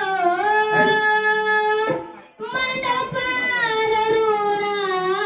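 A high voice singing a Marathi song in long, drawn-out notes with a wavering vibrato. It breaks off briefly about two seconds in, then holds another long note.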